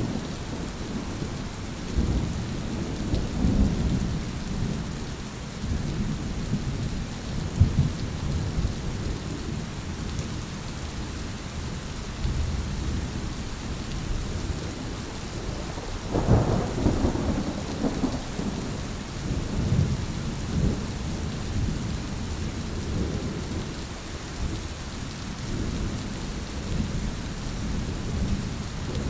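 Steady heavy rain with thunder rumbling low and rolling on and off throughout. A louder thunder surge comes a little past halfway and dies away over a few seconds.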